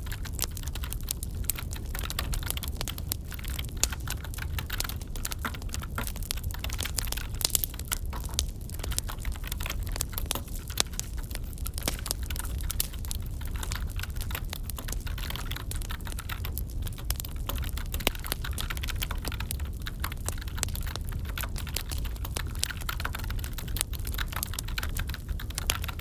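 Wood fire crackling in a fireplace, with a steady low rumble and many small sharp pops, mixed with continuous computer keyboard typing.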